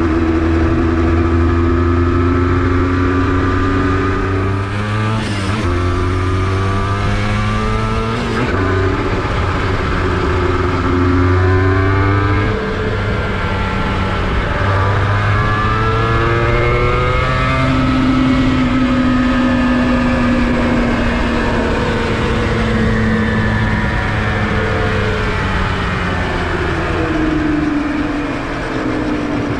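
Honda NSR250R two-stroke V-twin under way, its pitch climbing with two quick gear-change breaks in the first ten seconds, then falling away slowly as the bike slows.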